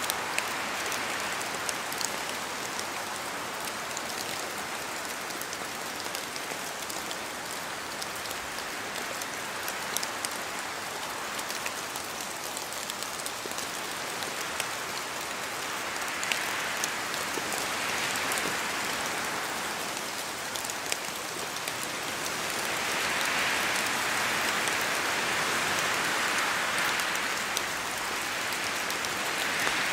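Steady rain falling through forest trees, with the sharp ticks of single drops hitting leaves. Gusts of wind swell and fade, the loudest from about 22 to 27 seconds in.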